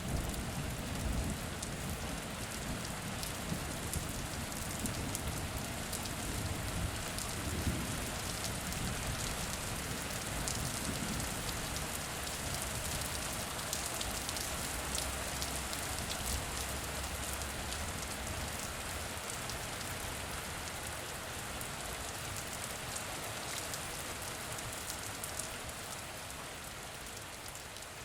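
Steady rain falling on a surface, with many single drops ticking through it. A low rumble of thunder dies away over the first ten seconds or so.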